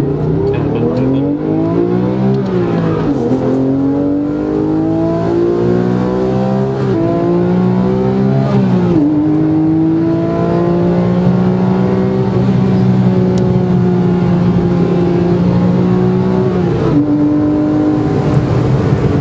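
Porsche 997 GT3's flat-six engine accelerating hard, heard from inside the cabin. The pitch climbs through the gears with four upshifts: the first about two and a half seconds in, then two more by about nine seconds in. After the third it holds a nearly steady, slowly rising pitch for several seconds before the last shift near the end.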